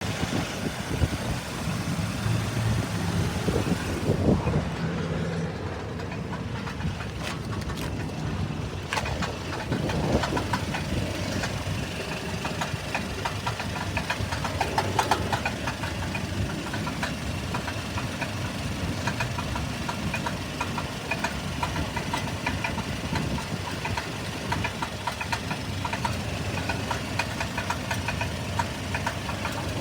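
1997 Toyota Tacoma engine running with a steady, rapid knocking rattle, which the owner cannot tell apart between a failing catalytic converter and engine knock.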